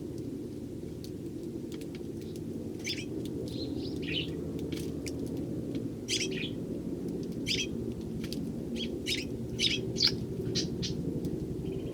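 Eurasian tree sparrows chirping: a string of short, sharp chirps that come faster in the second half, over a steady low hum.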